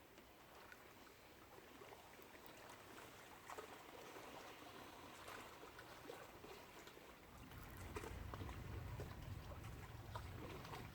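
Faint water trickling and lapping, with a few light ticks and a low rumble that comes up about three-quarters of the way through.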